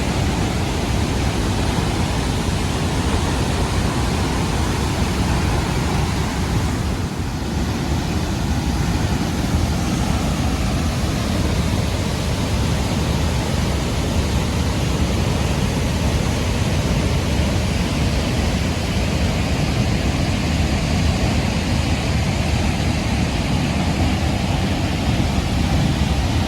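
Steady rushing roar of falling water from a large waterfall.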